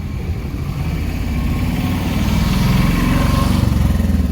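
A motor vehicle engine running close by, its low, fast-pulsing rumble swelling louder about two seconds in.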